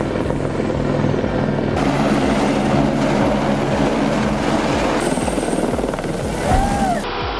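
Helicopter running, its rotor beating steadily over the engine. The sound changes abruptly a few times, and there is a brief louder swell about six and a half seconds in.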